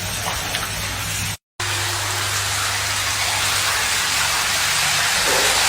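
Heavy rain pouring down steadily, with a brief dropout about one and a half seconds in and a low steady hum underneath.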